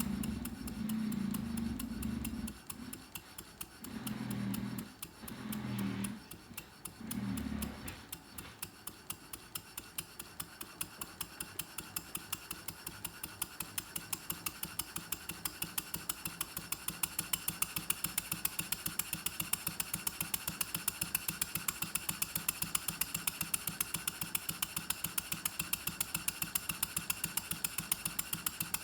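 Model Norden mill steam engine, built with a single Stuart Half Beam cylinder and steam chest, running with a regular ticking beat over a steady hiss. The beat gets faster and louder over the first half as the engine picks up speed, then holds steady. Four short low hums sound in the first eight seconds.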